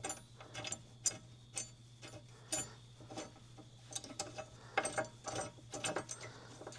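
Irregular metallic clicks and clinks of small steel parts being handled and fitted by hand: bolts, a lock washer and a locking plate going onto a car's upper wishbone mount.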